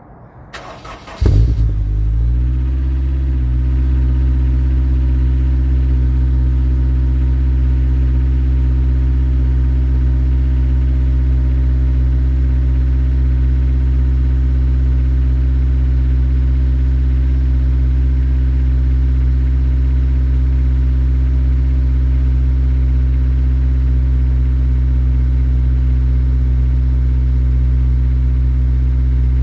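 Honda S2000's four-cylinder engine, breathing through a Tanabe Medallion Concept G exhaust, cold-started: a brief crank, then it catches with a sharp flare about a second in. It settles within a couple of seconds into a steady, even idle.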